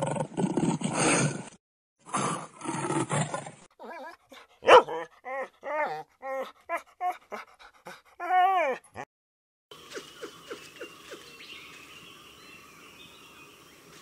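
A lion growls twice in rough, low bursts. Then a dog whines and yips in a run of short pitched calls, ending in a longer rising-and-falling whine. A quieter stretch of soft clicks and calls follows.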